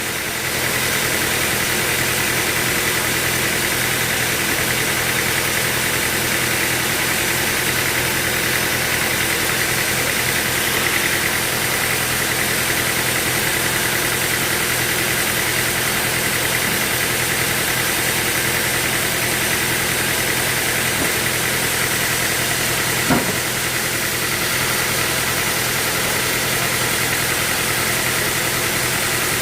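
Sawmill machinery running steadily at a constant pitch and level, with a single short knock about 23 seconds in.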